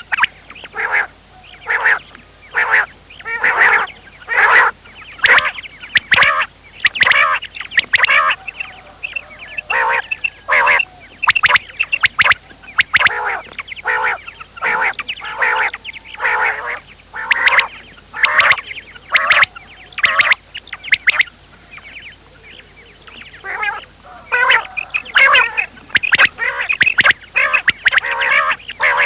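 Bird calls: short, harsh calls repeated in quick runs, several a second, with a lull about three-quarters of the way through.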